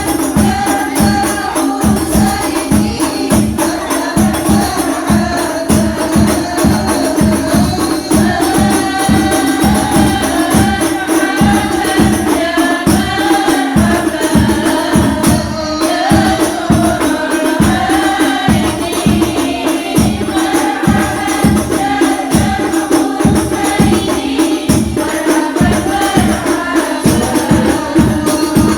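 Sholawat sung by a group of voices in unison over frame drums beating a quick, steady rhythm of about two to three strokes a second.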